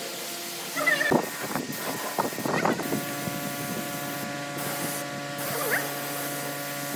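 A machine hum with several steady tones that settles in about three seconds in, after a few knocks and clatter.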